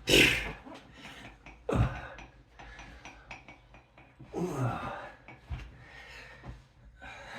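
A man panting hard during exercise: a loud, sharp gasping exhale at the start, another about two seconds in, and a longer voiced, falling exhale around the middle, with small knocks in between. He is out of breath from the workout.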